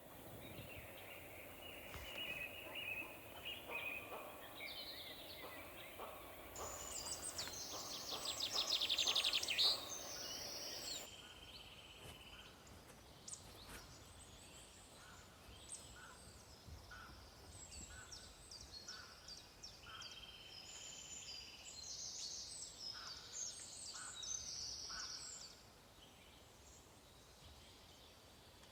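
Several wild birds singing and calling, with short chirps and trills overlapping. A fast, high trill about a third of the way in is the loudest part, and a steady run of short repeated notes follows.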